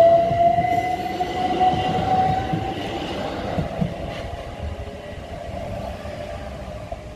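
Southeastern Class 375 Electrostar electric multiple unit passing close by, its wheels rumbling on the rails under a steady electric whine that rises slightly in pitch. The last carriage goes by about four seconds in, and the sound fades as the train moves away.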